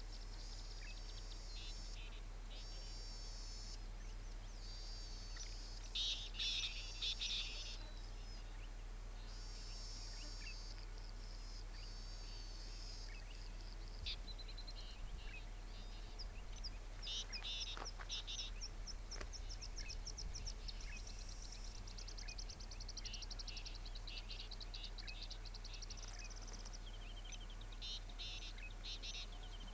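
Birds singing and chirping in repeated high-pitched phrases, loudest about six to seven and a half seconds in, with a fast run of repeated notes around twenty seconds in. A steady low hum lies underneath.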